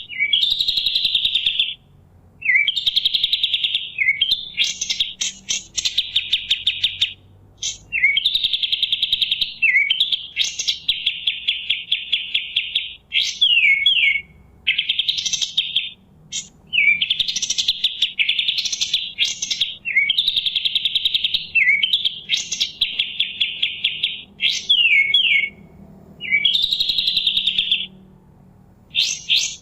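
Kapas tembak (pied triller) singing: a run of fast, buzzy trills, each lasting a second or two, broken by short sharp chips and brief pauses.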